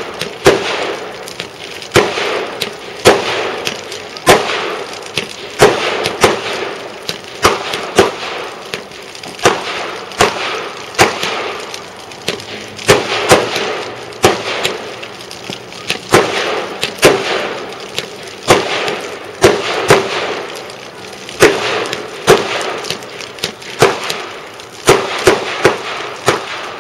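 Fireworks going off: a long run of sharp, loud bangs at an irregular pace, about one or two a second, each trailing off with a short echo.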